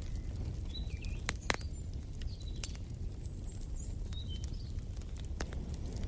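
Wood fire crackling, with irregular sharp pops over a low steady rumble. A bird chirps short notes about three times.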